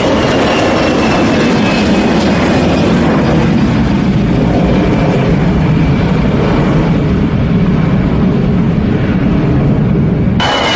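Airplane engines running with a loud, steady rumble, as heard during a takeoff or landing roll; the sound changes abruptly just before the end.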